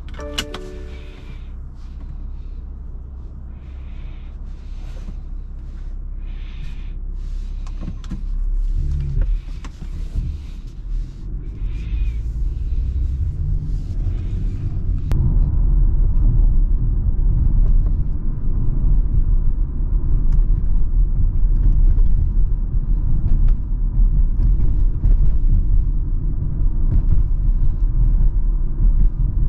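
BMW X3 M40i's 3.0-litre turbocharged straight-six and drivetrain heard from inside the cabin, first moving slowly with echo off the walls of a parking garage. About halfway in it changes to a louder, steady low rumble of engine and tyres at road speed.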